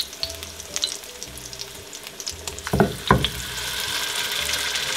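Cassava bammies frying in shallow oil in a frying pan, a light crackling sizzle. Two sharp knocks come about three seconds in, and the sizzle gets steadier and louder after them.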